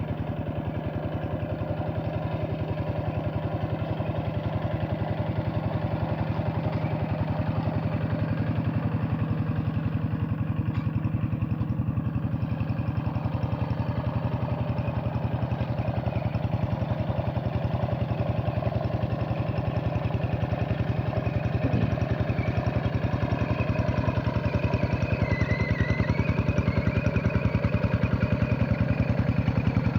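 Hand tractor's diesel engine running steadily, with a fast even pulse of firing strokes, working a flooded rice field; it grows slightly louder in the second half.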